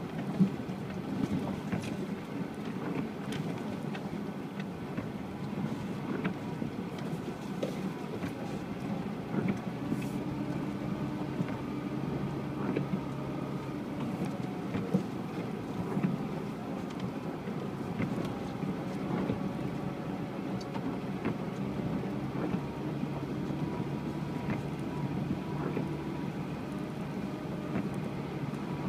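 UAZ Patriot engine running steadily as the SUV drives off-road, its note shifting a little now and then, with scattered knocks and clicks.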